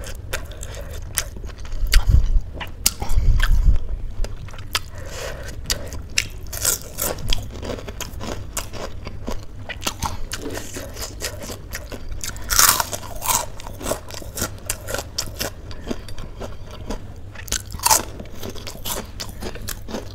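Close-miked mouth sounds of a person chewing a mouthful of spicy instant noodles: wet chewing with many small smacks and soft crunches. There are two louder breathy hisses, one about two-thirds of the way through and one near the end.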